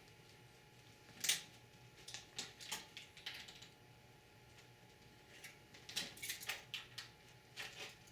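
Scattered sharp clicks and taps of a hand tool working the hex nuts on a computer motherboard's rear ports, in small clusters with a louder click about a second in.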